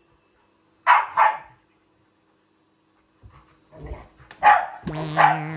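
Dog barking at a vacuum cleaner: two sharp barks in quick succession about a second in, then a pause, then more barks and yips near the end. A long wavering tone sets in shortly before the end.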